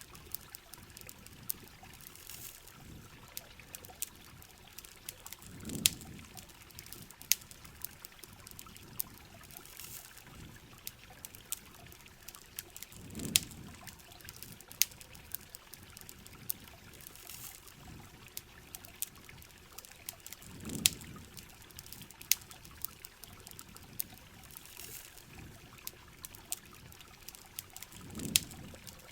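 Rain soundscape with steady trickling and pouring water, scattered sharp campfire crackles and pops, and a soft low rush that swells about every seven and a half seconds.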